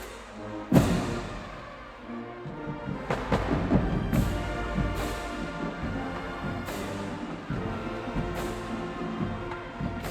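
High school marching band playing: brass holding chords over repeated drum and cymbal hits, the loudest hit about a second in.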